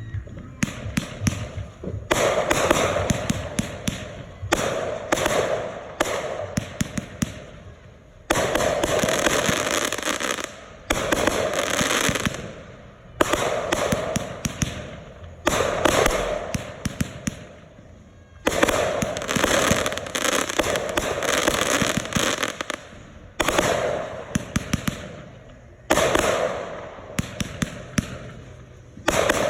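Consumer fireworks going off: a run of bursts of dense crackling and popping, a new one starting suddenly every two to three seconds and each fading out before the next.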